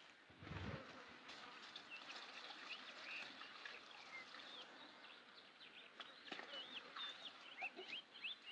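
Faint, scattered chirping of small birds, many short rising and falling calls, with a soft low rumble about half a second in.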